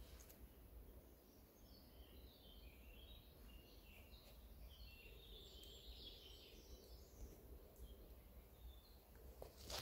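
Faint birdsong: scattered short, high chirps from small birds, busiest in the middle, over near silence. A single sharp click just before the end.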